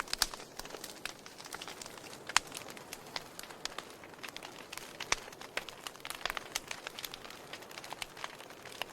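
Wood fire crackling, with irregular sharp pops over a soft hiss; a few pops stand out louder than the rest.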